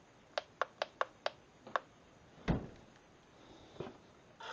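A run of sharp small clicks, about four a second, then single clicks and a heavier knock, from handling the toy RC helicopter and its switch. At the very end its electric rotor motor starts with a steady high whine.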